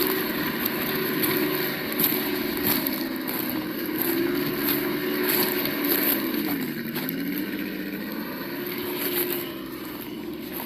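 Sound module of an Absima Yucatan 1:8 RC crawler playing a simulated engine note through its small speaker. The pitch wavers with the throttle and dips low about six and a half seconds in, with scattered faint clicks over it.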